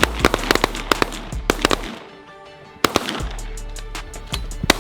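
Rapid volley of shotgun shots from several hunters firing at once, over background music. The shooting breaks off about two seconds in, leaving only the music. A single loud shot follows a little later, then a few more near the end.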